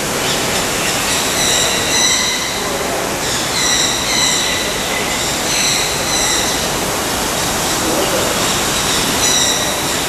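Birds giving repeated high, drawn-out squealing calls, several in a row, over a steady rushing noise.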